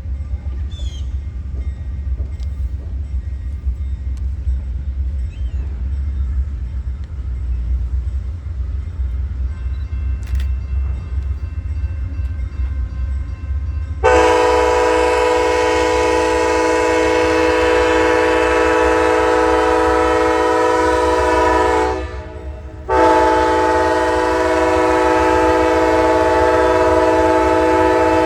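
Low rumble of a train, then about halfway through a locomotive air horn sounds a long, loud blast of several notes at once, breaks off for about a second, and starts again in another long blast.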